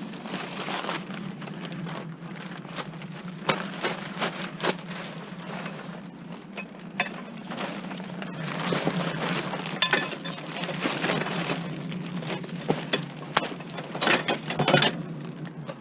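Scrap hardware and junk being sorted by hand: metal pieces clinking and clattering as they are picked up and tossed aside, with a burst of clattering near the end, over a steady low hum.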